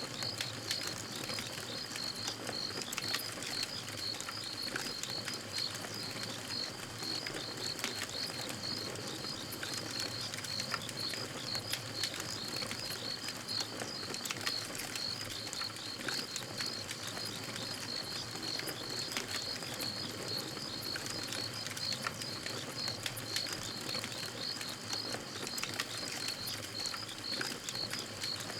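Campfire crackling, with sharp pops scattered through a soft steady hiss. Behind it a high chirping repeats at an even rhythm, several chirps a second.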